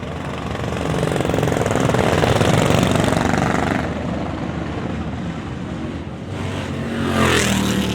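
Vintage motorcycles riding past one after another: the engine note swells as one goes by in the first half, and another passes close near the end.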